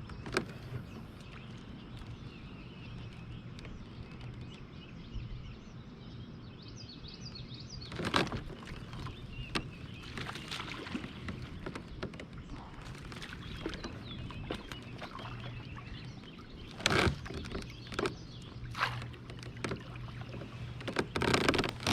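Kayak on open water: a steady low background hum with faint bird calls, broken by several knocks and rattles of gear handled against the kayak.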